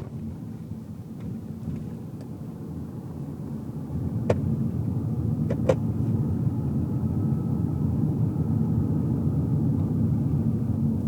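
Car cabin noise while driving: a steady low rumble of engine and tyres on the road, growing louder about four seconds in, with two brief sharp clicks near the middle.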